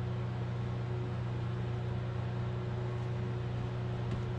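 Steady low machine hum with hiss and a faint higher tone.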